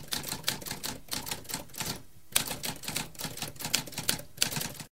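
Typewriter typing: a quick, uneven run of key clicks with a short pause about two seconds in, stopping abruptly near the end.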